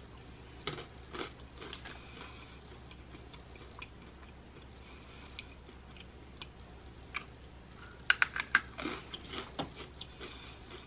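A thin, crunchy breadstick being bitten and chewed: scattered crisp crunches, with a quick run of sharper, louder crunches about eight seconds in.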